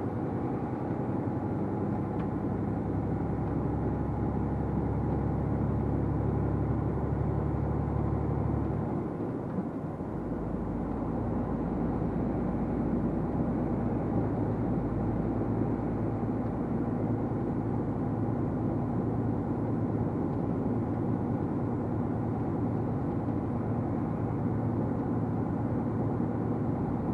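Heavily loaded truck's engine pulling steadily uphill, heard from inside the cab. About nine seconds in the low engine note changes with a brief dip in level, then the engine carries on at a steady pull.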